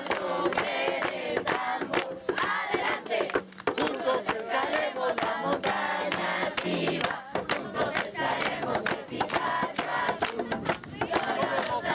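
A large group shouting and cheering over one another, with many sharp claps mixed in.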